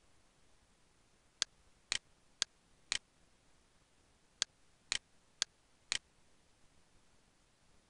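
Computer mouse clicking: two runs of four sharp clicks, each run evenly spaced about half a second apart, crisp and duller clicks alternating.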